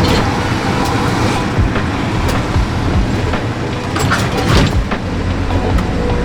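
Nissan Cedric 130's stock L20A straight-six engine running through its standard exhaust, a steady rumble with many short knocks and rattles scattered through it.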